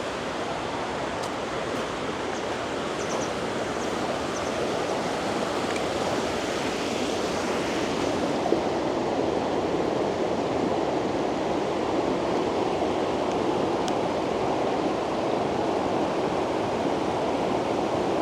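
River water rushing over rocks, a steady, fairly loud rushing that grows a little louder about halfway through.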